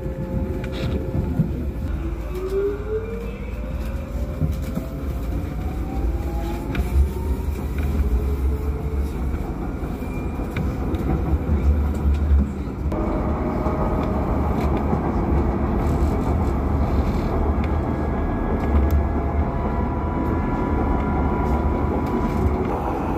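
Docklands Light Railway train running, heard from inside the car: a steady rumble of wheels on rail, with a whine rising in pitch from the electric traction motors a couple of seconds in. Just before halfway the running noise suddenly gets louder and fuller.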